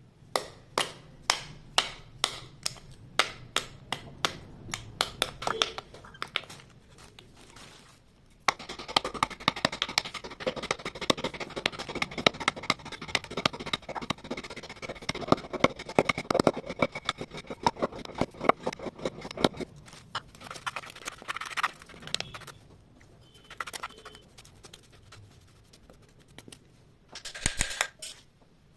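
Dry clay lumps being crushed, crunching and crumbling. First there are sharp crunches at about three a second, then a long dense run of crackling crumbles, thinning to scattered crunches and one short burst of crumbling near the end.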